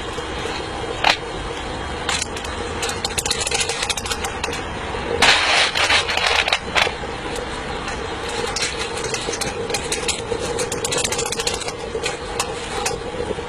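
Electric fan running steadily to draw the charcoal fire of a miniature steam locomotive, with scattered small metallic clicks and a louder scraping noise about five seconds in.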